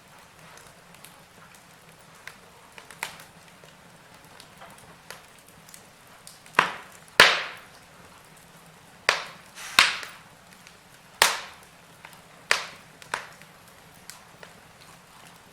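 Wood fire burning in a fireplace, crackling: scattered sharp pops over a faint hiss, with a cluster of louder pops in the middle.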